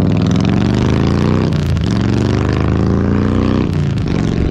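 Vehicle engine accelerating, its pitch climbing, with brief breaks about one and a half seconds in and again near the end, as at gear changes.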